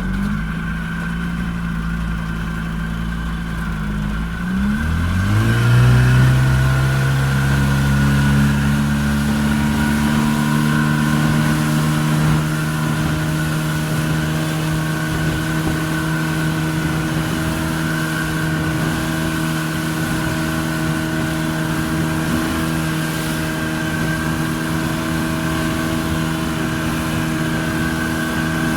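Yamaha 30 hp two-stroke outboard motor running at low revs, then opened up about four to five seconds in: its pitch rises smoothly and it settles into a steady, higher-pitched run.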